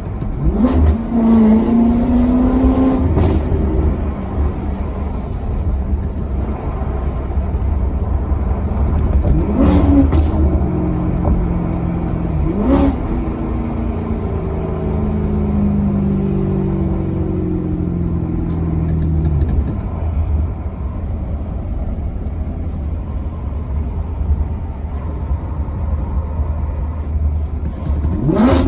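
Maserati Quattroporte Sport GT's V8 engine driving: it climbs in pitch under acceleration near the start, gives two sharp throttle blips on downshifts around the middle, then falls in pitch under engine braking before running steadily.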